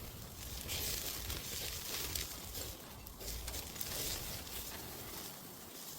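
Pork belly sizzling and fat crackling on a grill rack over a wood fire: a hiss with fine crackles that swells about a second in and eases off near the end.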